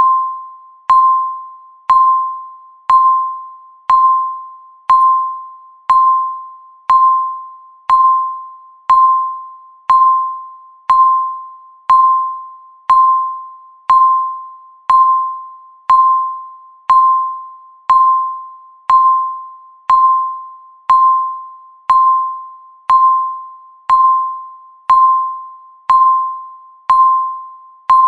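Countdown timer beep: a single electronic tone near 1 kHz sounding once a second with a sharp start and a quick fade, one beep marking each passing second.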